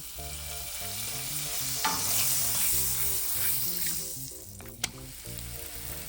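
Butter sizzling in a hot skillet as a flour tortilla heats in it. The sizzle swells about two seconds in and eases off later, with two sharp clicks, one near the start of the swell and one near the end.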